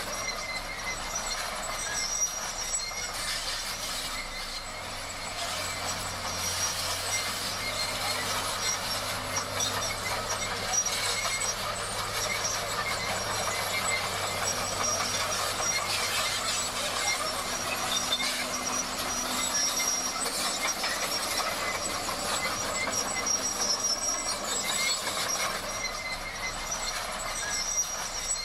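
Komatsu D58 crawler bulldozer working, its engine running under a continuous high squeal and clatter of steel tracks.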